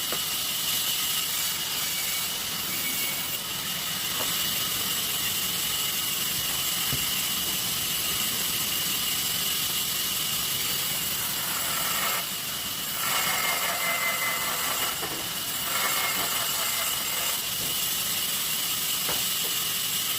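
Sawmill saw running steadily: a constant high whine over a hiss, with the sound shifting briefly twice in the second half.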